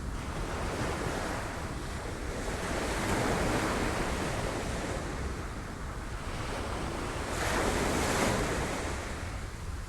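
Sea waves breaking on rocks, the surf swelling and ebbing, with the loudest wave breaking about seven and a half seconds in.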